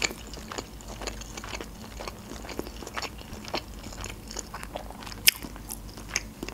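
Close-miked chewing of a spicy shrimp sushi roll with the mouth closed: soft, irregular wet clicks and smacks, with one sharper click about five seconds in.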